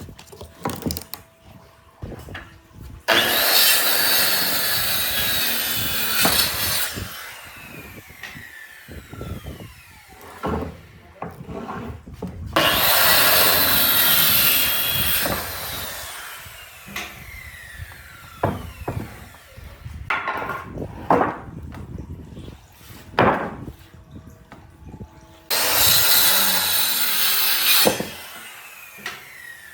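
Power saw cutting wood in three bursts of about three seconds each. After each cut the motor's whine falls away as it spins down, and knocks and handling clatter come between the cuts.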